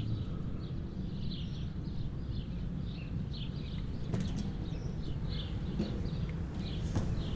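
Outdoor ambience: small birds chirping repeatedly over a low steady rumble, with a couple of sharp clicks.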